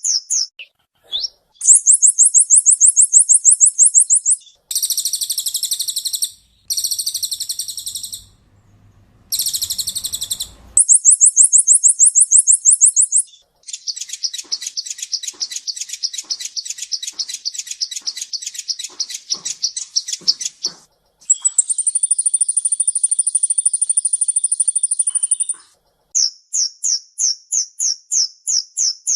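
Kolibri ninja, a sunbird, singing in rapid-fire phrases: a string of very fast, high trills of repeated notes with short breaks between them. One long, lower rattling trill falls in the middle, and a thin, high buzzing trill comes near the end.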